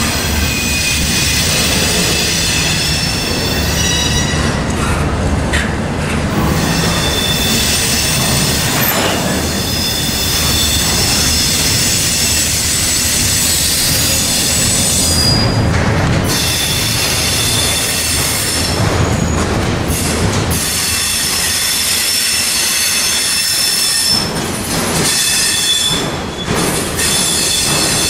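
Double-stack intermodal freight train's well cars rolling past close by, steel wheels rumbling on the rails. High-pitched wheel squeal comes and goes throughout.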